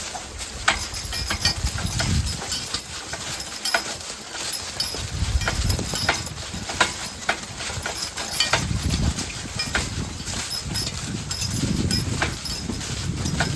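Hooves of a team of draft horses clip-clopping at a walk, irregular sharp strikes over intermittent low rumbling.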